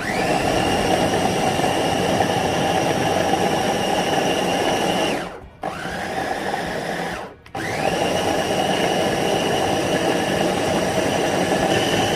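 Electric blender chopping a thick marinade of onions, mint leaves and olive oil: the motor whines up to speed, runs steadily, dips out briefly twice around five and seven seconds in, and whines back up to full speed each time.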